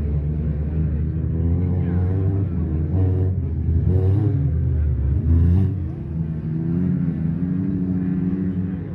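Wreck-race car engines running and revving on a mud track, the pitch rising and falling as they accelerate and lift off, loudest about four to five and a half seconds in, then easing.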